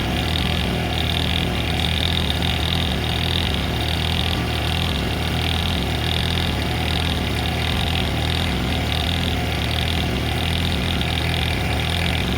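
A steady, unchanging low mechanical hum, like a running engine, with a steady higher hiss above it.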